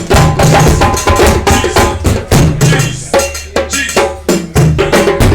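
Drumming: drums struck together in a fast, even rhythm, several sharp beats a second over a deep low pulse.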